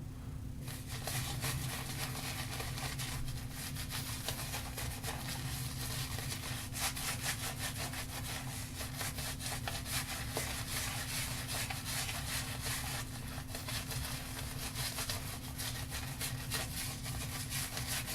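Shaving brush bristles scrubbing and swirling through a thick tallow shaving soap lather: a steady, rapid brushing rasp, over a constant low hum.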